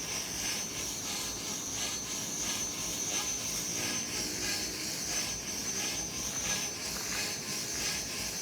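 Radio-controlled model aircraft flying, its motor a steady high drone.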